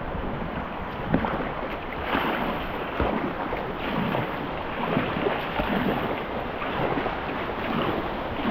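River whitewater rushing and splashing around a kayak, surging about once a second, with wind noise on the microphone.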